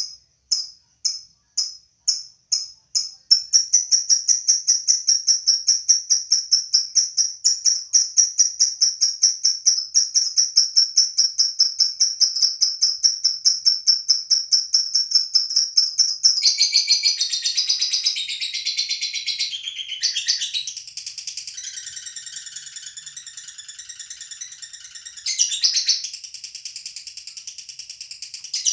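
Lovebird singing: sharp, high-pitched chirps at about two a second build after about three seconds into a long, fast, steady chatter of repeated notes. Later in the passage it breaks into a more varied, busier warble.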